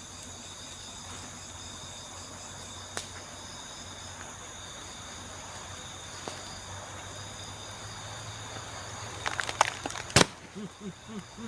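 Night-time chorus of crickets and other insects, a steady high-pitched trill. A few sharp clicks break it, with a cluster of knocks and one loud knock near the end, after which a run of short, low repeated calls begins.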